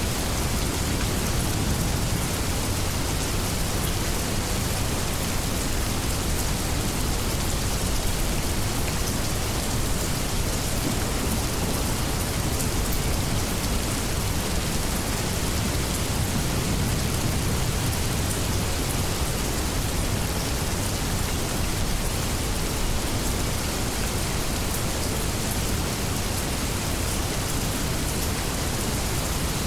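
Steady heavy rain falling on leaves, an even hiss with fine patter on top and a constant low rumble underneath.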